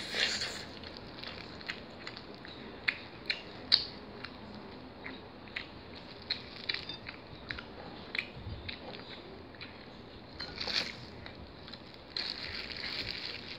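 A person biting into and chewing a roast chicken drumstick, with wet mouth clicks and smacks scattered irregularly. A longer rustling noise comes near the end.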